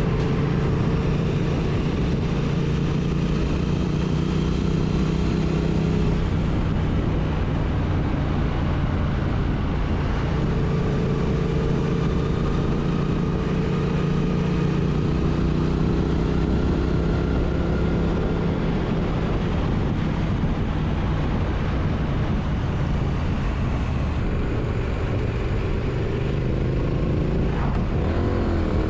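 Triumph Street Twin's parallel-twin engine running under steady load at road speed, with wind and road noise. The engine pitch drifts gently up and down, then dips and climbs again near the end.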